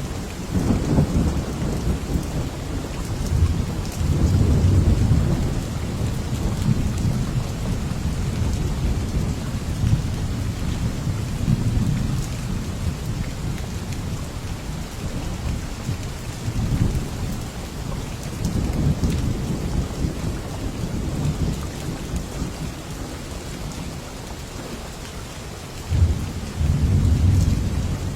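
Steady rain with low rolling thunder rumbling repeatedly underneath, swelling and fading every few seconds; a sharper, louder rumble comes in near the end.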